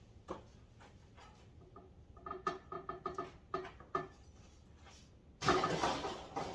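Metal tool-rack parts being handled: scattered knocks, then a quick run of short squeaks about two seconds in, and a loud scrape or rattle of metal lasting about a second near the end.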